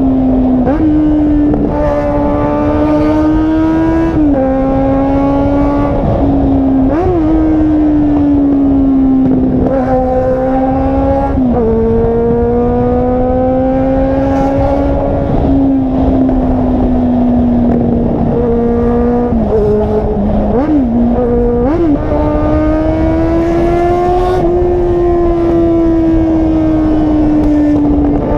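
Car engine and exhaust droning loudly under way. The pitch climbs slowly and drops in a step every few seconds, as at gear changes.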